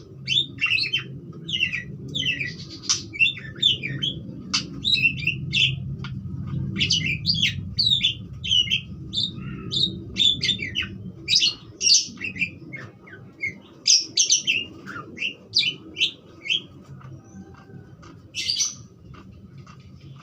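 Parakeets (budgerigars) chattering in a rapid, varied run of chirps and warbles that thins out near the end, over a steady low hum.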